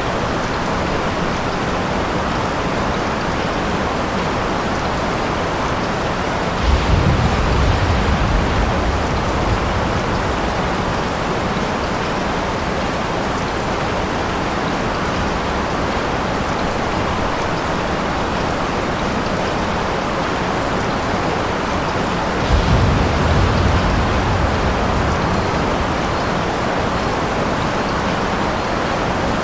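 Steady rain, with thunder rumbling low twice, about seven seconds in and again about twenty-three seconds in, each coming in suddenly and fading over a few seconds.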